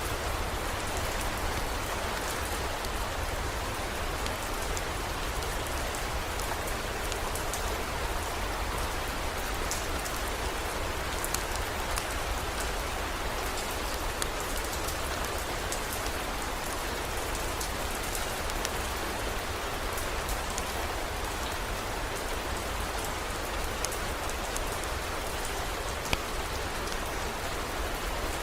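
Steady heavy rain, with many scattered sharp ticks through it.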